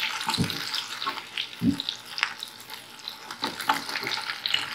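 Oil sizzling with scattered pops in a nonstick frying pan as shallow-fried chicken pieces are scooped out with a wooden spatula. Two dull knocks come about half a second and nearly two seconds in.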